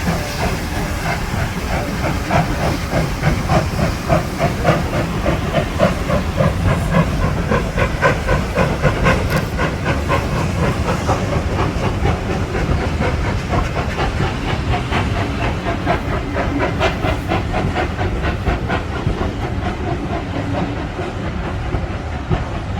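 Steam locomotive working under steam: hissing with a fast, even rhythm of exhaust beats.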